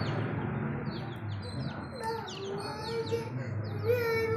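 Small birds chirping in quick, short, falling notes, several overlapping.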